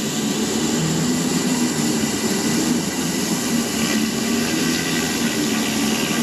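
Stihl RB 400 gas pressure washer running steadily, its engine humming under the hiss of the high-pressure water spray.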